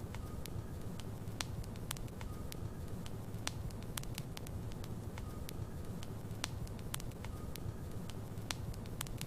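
Logs burning in a fireplace: irregular sharp crackles and pops, several a second, over a steady low rush of the fire.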